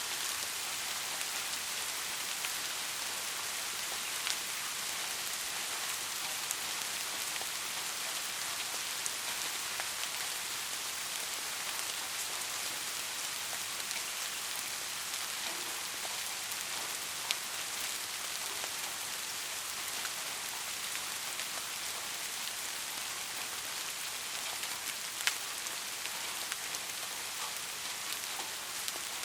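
Steady rain: a dense, even hiss of falling rain with the odd louder drop ticking out of it, sharpest twice in the second half.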